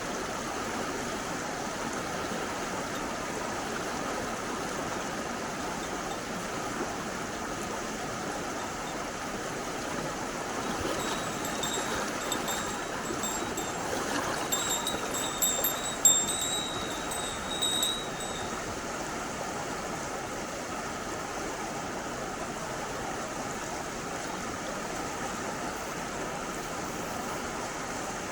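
Mountain stream running steadily. From about a third of the way in to just past the middle, a thin high ringing comes and goes in short jingles over the water.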